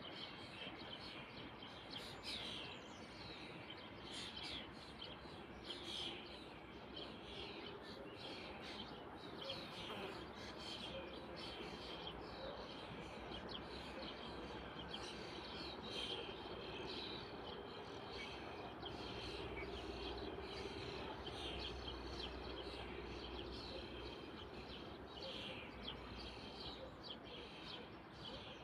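Small birds chirping in many short calls over a steady faint outdoor background, with a faint low hum in the middle.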